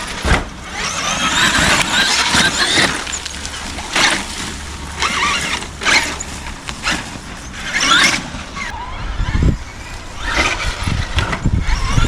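Traxxas X-Maxx electric RC monster truck driving in repeated bursts of throttle, each burst about a second long with a rising and falling electric motor whine.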